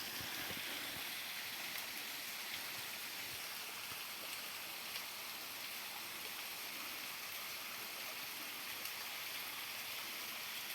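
Waterfall about 70 to 80 feet high, its falling water making a steady, even rush.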